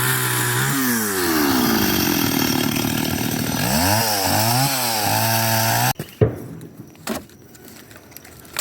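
Chainsaw cutting dry firewood, its engine revving up and down with the throttle. It cuts off suddenly about six seconds in, followed by a few sharp knocks.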